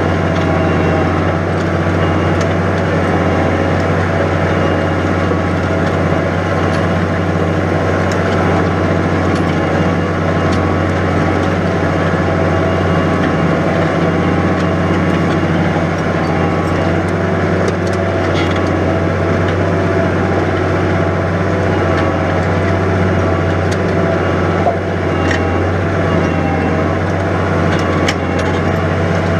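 New Holland 100-90 tractor's diesel engine running steadily under load while pulling a plough through wet, heavy ground.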